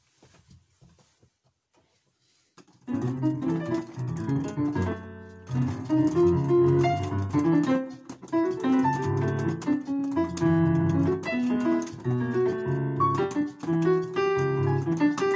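Piano playing starts about three seconds in, after a faint, quiet stretch. It continues as a dense, busy stream of overlapping notes and chords, with a brief gap just after five seconds.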